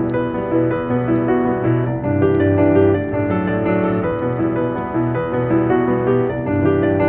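Slow, calm solo piano music, with the faint scattered crackle of a wood fire beneath it.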